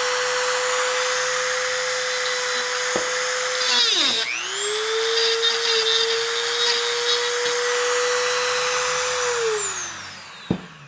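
Small power tool with a flat bit running at high speed to clean up corrosion on a bathtub faucet part, a steady motor whine over grinding hiss. It slows and speeds back up about four seconds in, then winds down as the trigger is released near the end.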